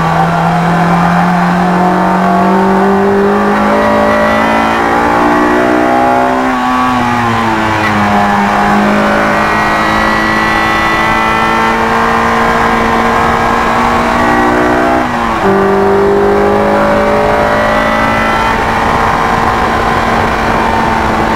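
Honda S2000's four-cylinder engine running hard at high revs on a race track, its pitch climbing steadily. It falls back and rises again about seven seconds in, then drops sharply at an upshift from third to fourth about fifteen seconds in and holds high.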